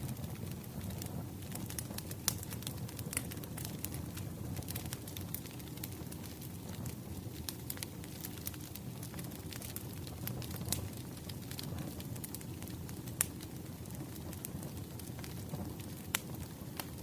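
Wood fire crackling: a steady low rumble with scattered sharp pops and snaps at irregular intervals.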